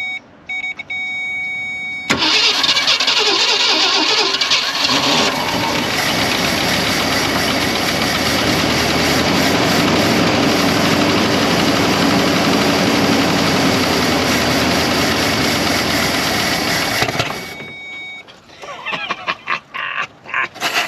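1965 Ford Thunderbird's 390 V8 catching suddenly about two seconds in and running steadily for about fifteen seconds, with a light lifter tap, before it fades and dies. It is running only on gas poured into the carburetor bowls after sitting for decades. The owner expects the lifter tap to go away once the lifters pump up.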